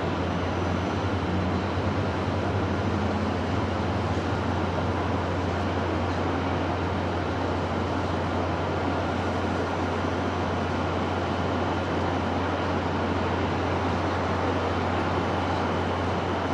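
Steady wind noise with a constant low rumble underneath, even in level throughout.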